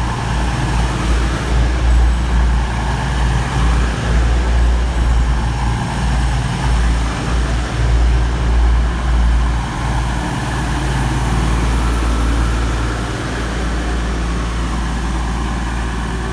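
Class 222 Meridian diesel-electric multiple unit running at the platform: a loud, steady diesel rumble with a wavering low end.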